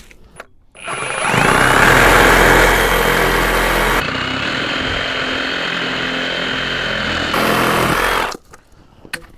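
Reciprocating saw running and cutting through 2-inch PVC conduit. It spins up about a second in, runs steadily, changes pitch partway through, and cuts off near the end.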